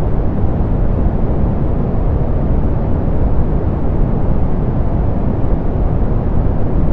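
Steady, softened pink noise: a constant, even hiss weighted toward the low end, with the treble rolled off.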